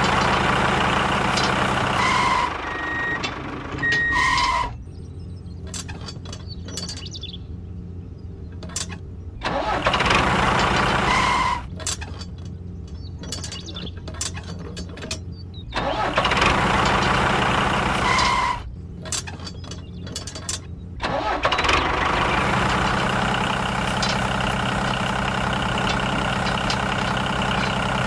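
Tractor engine running steadily with a low rumble. It grows louder in several stretches and drops back between them, and small clicks and taps sound in the quieter stretches.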